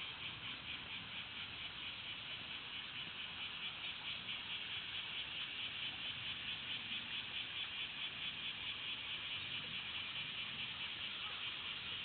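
Cicada singing: a steady, high buzzing drone with a regular pulsing rhythm, slightly louder after the first few seconds.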